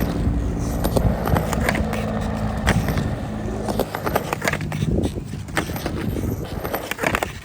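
Skateboard wheels rolling over a skatepark ramp with a steady rumble, broken by several sharp clacks of the trucks and board striking the ramp's coping during back Smith grind attempts.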